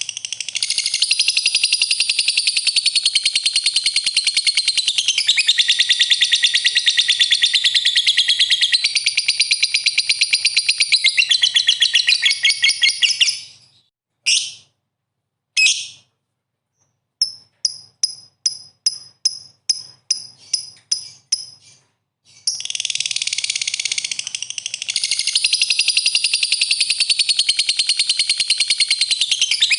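Lovebird singing a long, fast, chattering trill. About halfway through it breaks off; two short bursts and a run of about a dozen separate chirps, two or three a second, follow. Then the fast chatter starts again.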